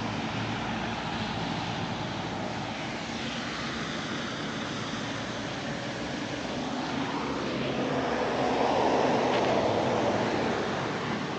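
Steady road traffic, with one vehicle passing close that swells louder about two-thirds of the way in and then fades.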